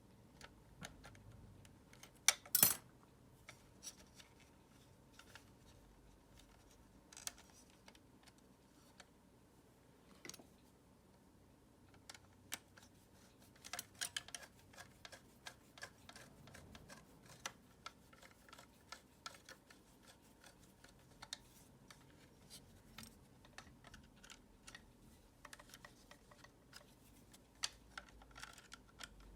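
Dyson vacuum cleaner's plastic parts and hand tools handled during disassembly: irregular small clicks and taps, with a louder clatter about two and a half seconds in.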